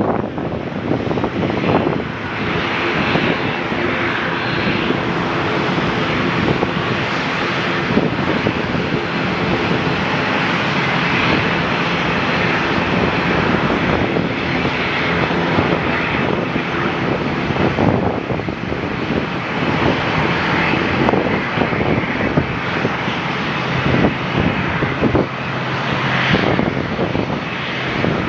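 Airliner's engines running, a loud, steady rushing noise with faint low humming tones underneath.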